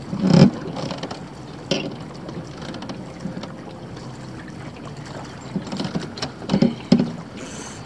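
Wind and water noise around a small fishing boat, with a few short thumps: the loudest about half a second in, another near two seconds, and two close together near the end.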